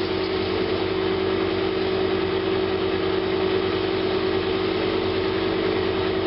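Woodturning lathe running steadily with a bowl blank mounted, a constant hum with an even hiss over it.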